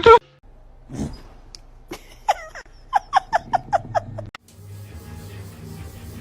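A person laughing in a quick run of short bursts, then, after a sudden cut about four seconds in, soft background music.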